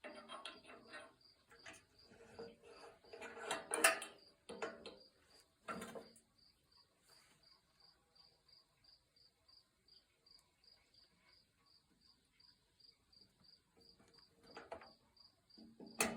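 Crickets chirping steadily, about three chirps a second. In the first six seconds and again near the end come metal clanks and rattles from the tractor hitch as the lawn sweeper is pinned on.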